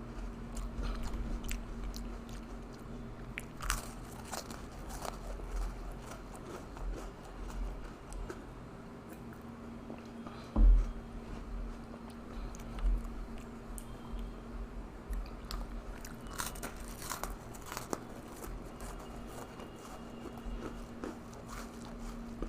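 Oreo sandwich cookies being bitten and chewed close to the microphone: a run of crisp crunches. There is a steady low hum underneath, and a single loud thump about halfway through.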